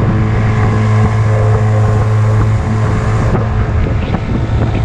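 Small boat's outboard motor running steadily under way, a loud low hum with wind on the microphone.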